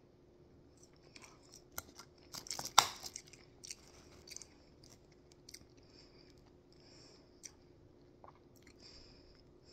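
A person chewing a french fry close to the microphone: irregular wet mouth clicks and crunches, busiest in the first few seconds with one sharp crunch about three seconds in, then softer chewing.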